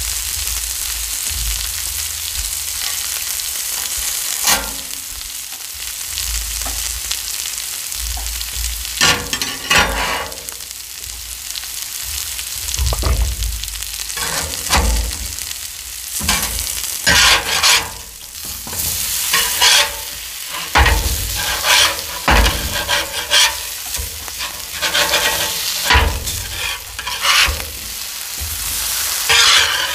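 Potato and onion slices sizzling steadily on a Blackstone steel flat-top griddle. From about a third of the way in, a metal spatula scrapes and knocks against the griddle plate again and again as the slices are turned.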